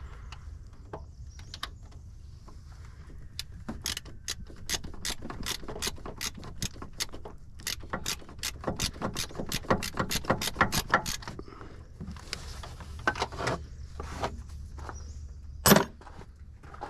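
Hand socket ratchet clicking in quick strokes of about three or four a second while backing out a starter mounting bolt, then a few scattered clicks and one louder clank near the end.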